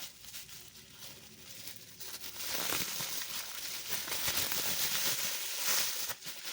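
Packaging crinkling and rustling as it is handled and unwrapped, getting louder about two and a half seconds in.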